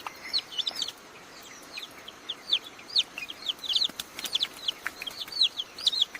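Young chicks peeping: a rapid, continuous run of short, high, downward-sliding cheeps, several a second.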